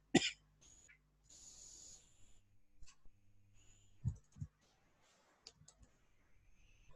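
Faint, scattered clicks from computer mouse and keyboard use, with a short louder noise right at the start and two soft low thumps about four seconds in.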